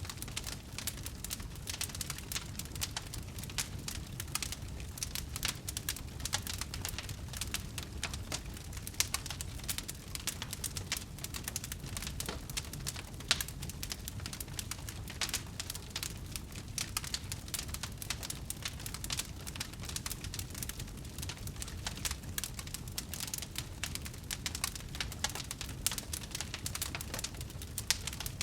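Wood fire crackling: a dense, continuous stream of small pops and snaps over a low steady rumble.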